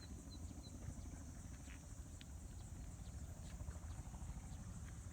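Spraying helicopter's rotor beating as a faint, rapid low pulsing, with a steady high insect drone over it.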